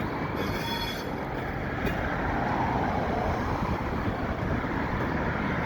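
Steady mixed vehicle noise: road traffic passing close by and a light switcher locomotive set, a slug and its diesel mother unit, rolling by at low speed with a low hum under the rumble.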